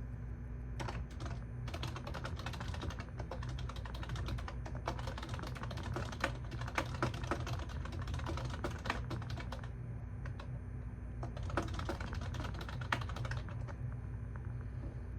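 Typing on a computer keyboard: a long fast run of key clicks, a short pause, then a second shorter run, over a steady low hum.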